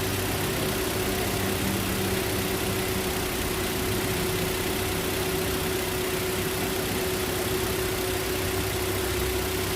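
Four-cylinder car engine idling steadily and evenly on new ignition coils and spark plugs: the misfire and rough idle are gone.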